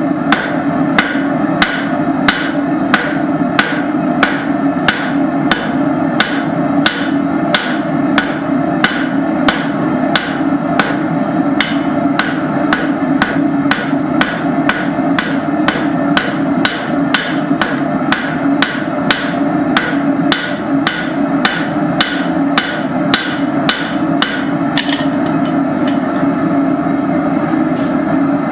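Hammer striking hot steel bar stock on an anvil at about two blows a second, drawing out and fanning a taper; the blows stop about 25 seconds in. A steady hum runs underneath.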